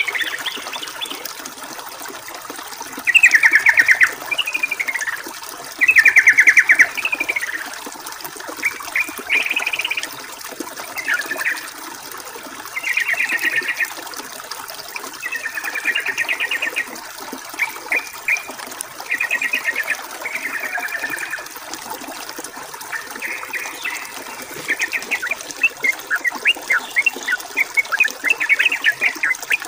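Sooty-headed bulbul singing short phrases of quick bubbly notes, one every second or two, over a steady background of running water.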